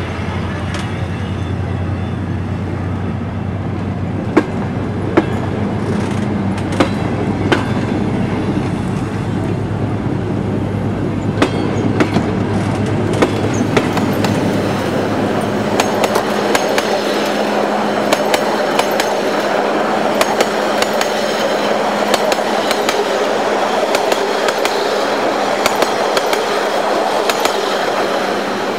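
Passenger train pulling out of a station: a steady low hum with scattered clanks and knocks in the first half. From about halfway the hum drops away, and the rolling noise of the coaches builds with repeated clicks of wheels over rail joints.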